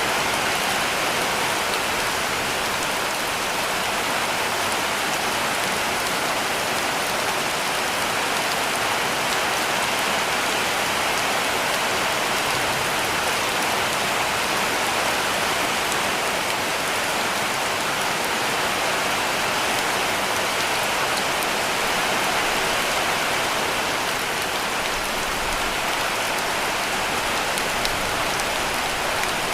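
Heavy rain falling steadily on a cabin roof: a dense, even hiss of drops with no pauses or swells.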